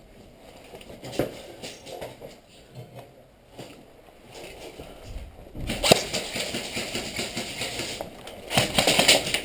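Airsoft guns firing: scattered sharp shots at first, becoming a denser clatter of shots about six seconds in.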